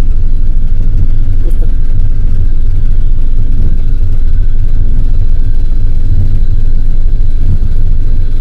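Passenger train carriage rolling along the rails at speed: a loud, steady rumble with a faint thin whine above it.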